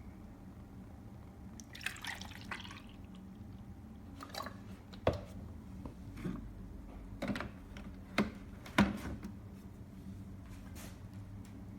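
A brief liquid splash about two seconds in, then a handful of sharp, irregularly spaced drips and light clicks over a faint steady hum.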